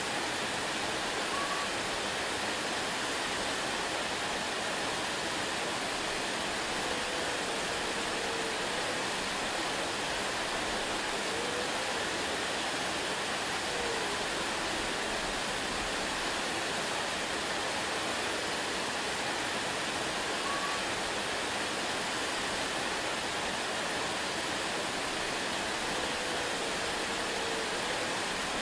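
Waterfall: a steady, even rush of falling water, with a few faint short high notes now and then.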